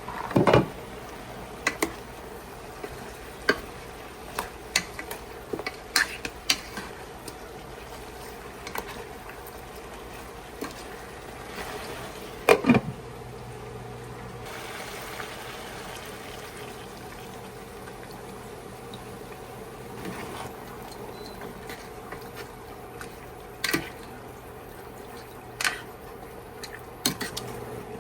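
Kitchen cooking sounds: scattered knocks and clinks of cookware and utensils over a steady low hiss, with a stretch of running liquid in the middle.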